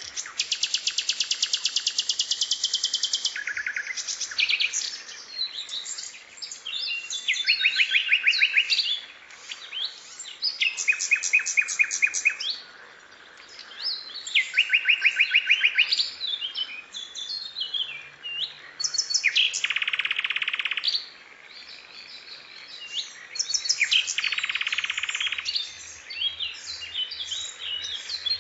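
Mixed bird-song recording of sikatan londo, cucak cungkok and tengkek calls: bursts of rapid buzzy trills a second or two long, six or so of them, alternating with sharp chirps and short whistled notes.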